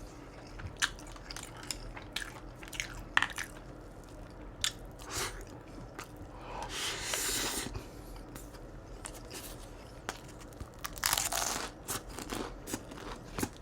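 Close-miked eating of crispy fried crab rangoons: sharp crunches scattered among wet chewing.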